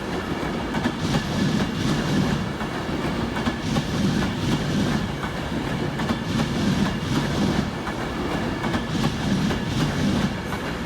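Avanti West Coast Class 390 Pendolino electric train rolling into the platform, its wheels clicking over rail joints and points above a steady rumble.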